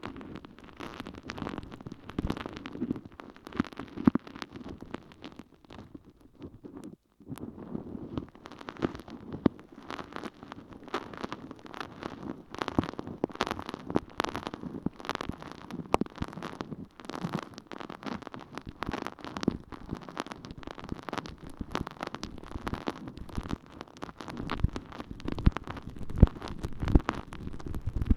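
Water-soaked sponge full of holes squelching and crackling in an ear microphone: a dense, irregular wet fizzing and crackling, with a short pause about seven seconds in.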